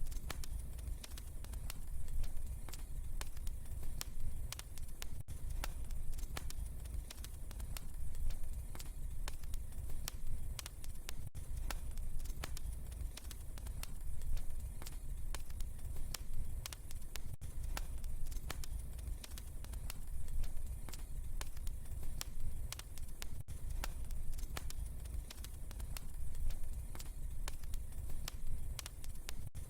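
Wood fire in a fireplace crackling steadily, with frequent sharp pops and snaps over a low rumble of burning.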